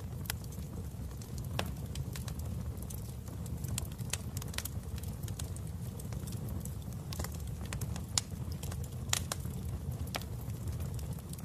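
Fire crackling in a fireplace: a steady low rumble of flames with irregular sharp pops, the loudest about eight and nine seconds in.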